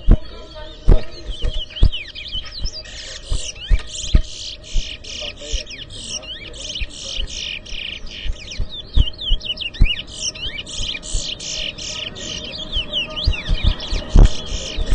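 Caged towa-towa finches singing in a whistling contest: fast, continuous runs of high twittering song notes that grow denser from about three seconds in, with scattered low thumps.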